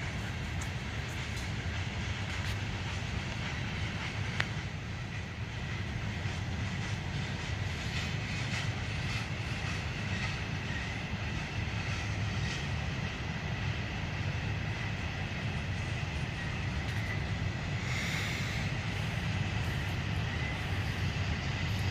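Freight train cars rolling past, with a steady rumble and scattered clicks of wheels over the rail joints. A faint high metallic tone runs through it and grows brighter for a moment about 18 seconds in.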